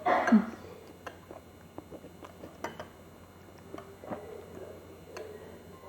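Eating sounds: a spoon clicking and tapping against a bowl with chewing, a dozen or so scattered light clicks. A short, loud voice-like cry falling in pitch comes at the very start.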